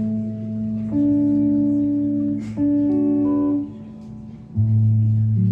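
Guitar playing an instrumental song intro live: held chords with new notes struck about a second in, again a second and a half later, and once more near the end after a brief quieter stretch.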